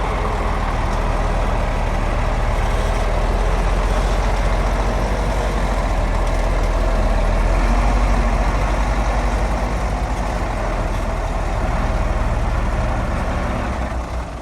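Heavy diesel engine of an earthmoving machine running steadily with a deep low rumble, swelling slightly about halfway through.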